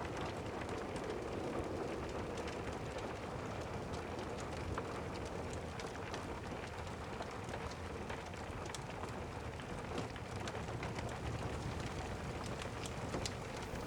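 Steady rain ambience with many small scattered crackles and ticks, as of a crackling fireplace fire layered under the rain.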